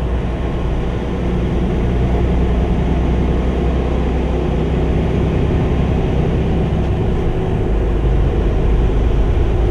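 Semi-truck engine and road noise heard from inside the cab while driving: a steady low drone with tyre hiss, the low drone shifting slightly about eight seconds in.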